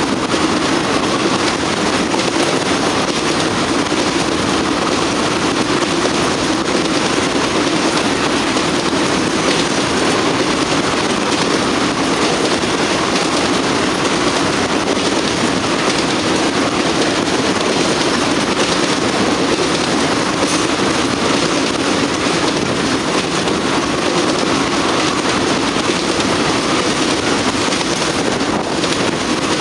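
Freight train of tank cars rolling past close by: a loud, steady noise of steel wheels running on the rail.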